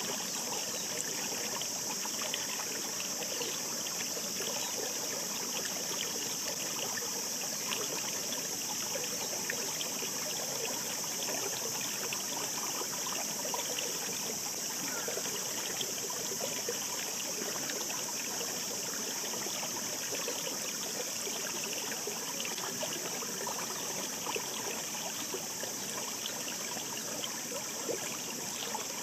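Shallow mountain stream babbling steadily: a continuous rush of water flecked with many small gurgles and splashes.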